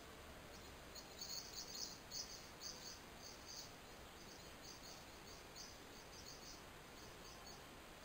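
Faint, rapid high chirps from a bird, about three a second, loudest in the first couple of seconds and thinning out toward the end.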